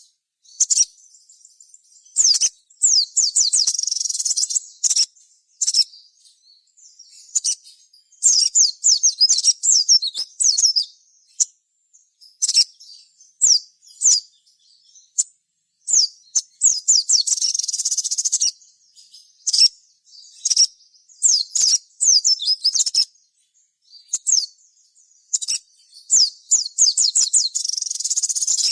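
Ruby-cheeked sunbird (sogon) singing in a lively, full-song way. It gives rapid, very high-pitched chirping phrases of a second or two, repeated every few seconds with short pauses between them.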